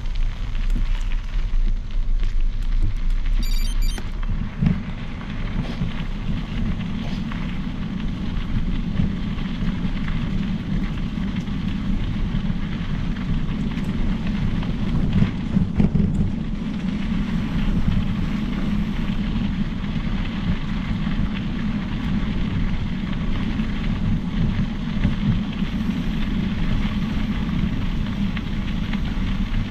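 Wind rushing over the microphone and the tyres of a Specialized Epic Pro mountain bike rolling along a trail while riding, a steady rough rumble. A brief run of fine ticks sounds about three and a half seconds in.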